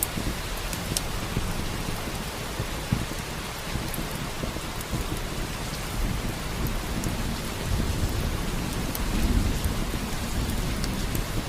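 Steady rain with a crackling wood fire, sharp pops scattered through it. A low thunder rumble swells about eight seconds in.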